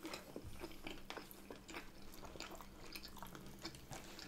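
Faint close-up chewing of food: a steady run of small, wet mouth clicks.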